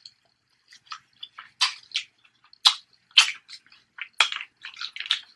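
Close-up wet eating sounds: irregular smacks, clicks and squishes of chewing and lip-smacking on sauced snow crab.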